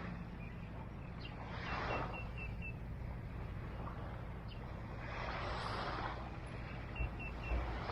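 Small waves washing up on a beach in repeated swells of hiss, one every couple of seconds. A bird chirps in short runs of quick high notes twice.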